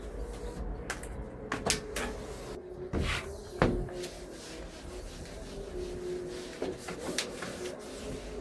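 Irregular clicks and knocks, about seven of them spaced unevenly, over a faint steady tone.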